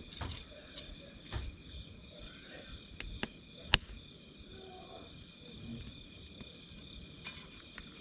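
Wood campfire crackling: scattered sharp pops and snaps, with one louder pop a little past halfway through.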